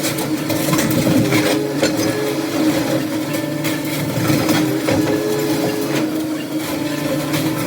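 A heavy machine's engine running steadily, with scattered knocks and rattles over it.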